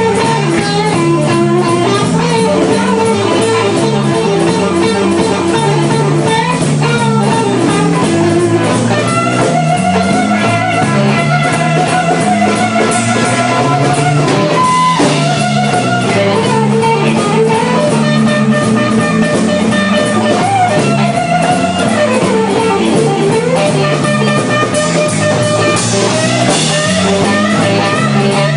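Blues band playing an instrumental passage: electric guitar lines with a few bent notes over drums and a stepping low line.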